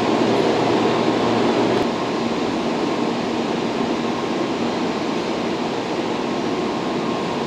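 N700 series Shinkansen pulling slowly out of the station: a steady rumble of the moving train with a low, even hum.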